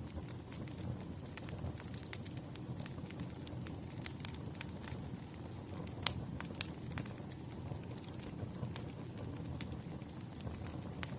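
Burning wood fire crackling: irregular sharp pops and snaps over a steady low rush of flame, with one louder pop about six seconds in.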